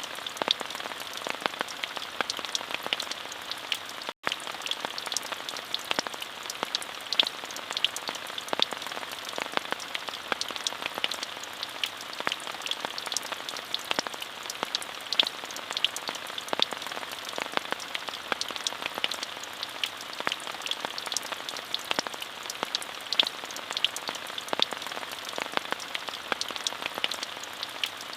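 Steady rain: an even hiss dotted with many sharp, close drop ticks. The sound cuts out completely for an instant about four seconds in.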